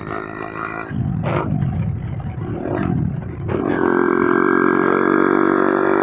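Two-wheeler engine running under way: its pitch swings up and down for a couple of seconds about a second in, then it settles into a louder, steady drone from a little past halfway.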